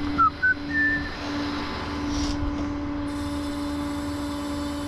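A vehicle engine running steadily with a constant low hum. Three short, high chirps or squeaks come in quick succession about a quarter-second to a second in.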